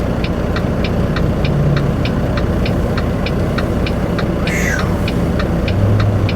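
Semi-truck engine idling steadily, heard from inside the cab, with a turn signal clicking evenly at about three clicks a second. A brief high hiss sounds about halfway through.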